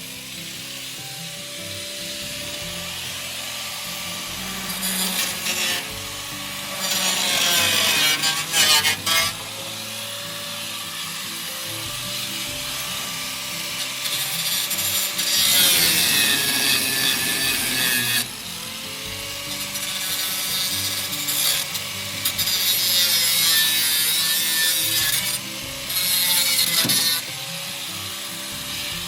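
Angle grinder cutting into the sheet steel of the truck's fenders, throwing sparks. Its motor runs steadily, and its pitch sags each time the disc bites harder, in several louder rasping spells.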